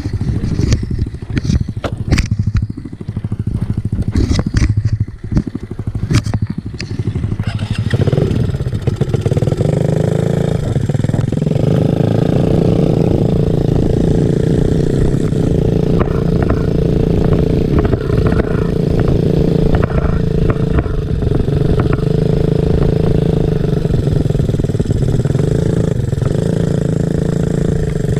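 Small off-road motorcycle engine running. For the first several seconds it goes unevenly with repeated knocks and clatter. It then revs up and holds a steady high note.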